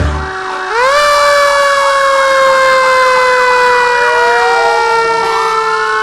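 Emergency vehicle sirens: one starts about a second in with a quick rise and then holds, slowly falling in pitch, over a fast up-and-down warbling siren, and a second siren winds up from about four seconds in.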